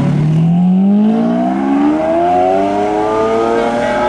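A Peugeot's engine and exhaust accelerating away under one long pull, its pitch rising steadily.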